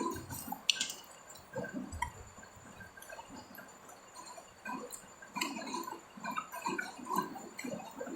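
A person chewing food close to the microphone, with irregular wet mouth sounds, and a brief sharp click about a second in.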